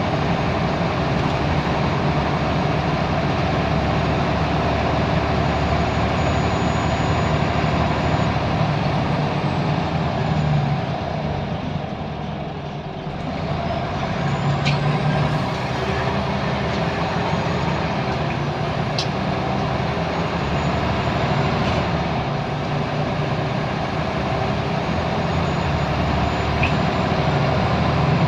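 Scania L94UB Wright Solar single-decker bus's nine-litre diesel engine running steadily under way. The engine noise dips about twelve seconds in, then picks up again. A few short clicks come later.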